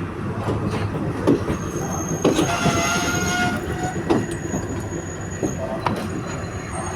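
Train running on the rails: a steady rumble with irregular knocks from the wheels. A high metallic wheel squeal sounds for about a second, starting a little over two seconds in.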